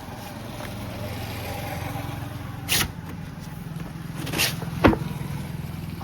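A motor running with a steady low hum, broken by three short, sharp sounds: two brief hisses and then a louder one with a quick falling squeal near the end.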